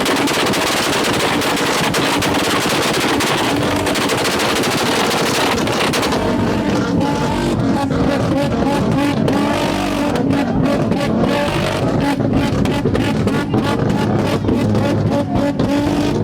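Car engine held against a two-step launch limiter, its exhaust popping and crackling rapidly over a steady engine note. For the first six seconds the pops run together into a dense crackle; after that they come as separate sharp cracks, several a second.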